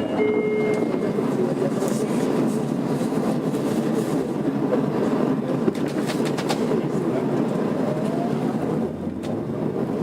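Tokyo Metro 02 series subway train, an IGBT-inverter set, running between stations, heard from inside the car: steady wheel and running noise with a few clicks over the rails. A faint rising whine comes in near the end.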